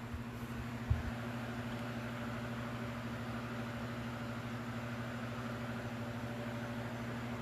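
Steady electrical hum with a whirring hiss, like a fan or air conditioner running in the room, and a single soft knock about a second in.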